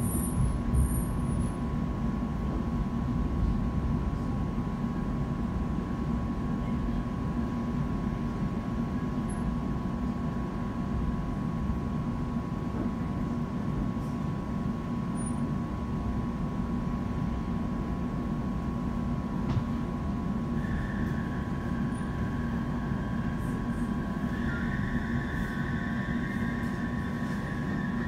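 Cabin sound of a class 710 electric multiple unit on the move: a steady low rumble with a faint steady hum. About twenty seconds in, a high squeal sets in and holds.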